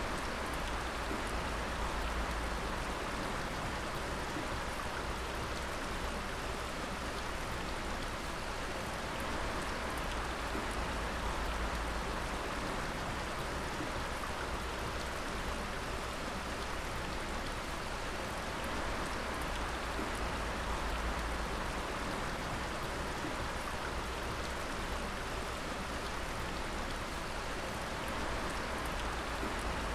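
Dripping water: a steady rush of many falling drops, with faint clicks of single drops throughout.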